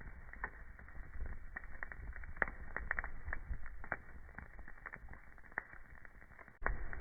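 Burning wood in a fireplace crackling: irregular sharp pops and snaps over a low rumble of flames. Near the end it dips briefly and then comes back abruptly.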